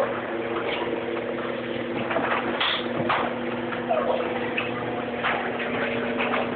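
Electric garage door opener running: a steady motor hum with irregular rattles and clicks from the moving door.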